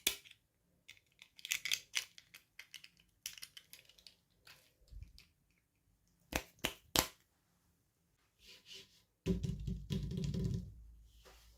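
Small plastic toy packaging being handled and opened by hand: crinkling and rustling with several sharp clicks, then a louder rubbing, handling noise near the end.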